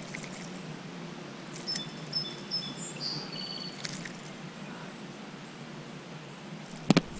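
A bird's short, high chirps, several in a row, about two seconds in, over a steady low background hum. Near the end there is a sharp double click, the loudest sound.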